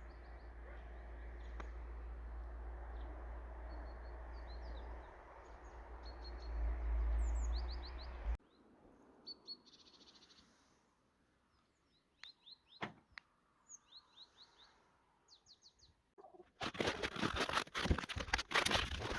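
Small birds chirping in short repeated calls over a low wind rumble, which cuts off abruptly about eight seconds in. Near the end, a loud rough noise lasts about two and a half seconds.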